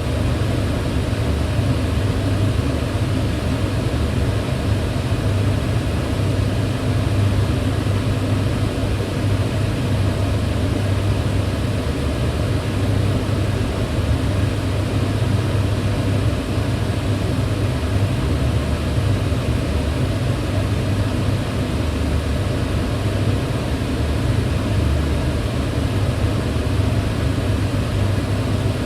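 Kitchen range hood fan running steadily, a constant low drone with airy rushing noise above it.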